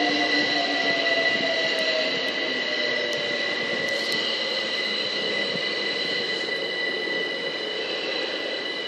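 London Overground Class 378 electric unit pulling into the platform, its motor whine falling in pitch as it brakes over the first couple of seconds, under a steady high whine and a wheel-and-rail rumble that slowly dies down as it comes to a stand.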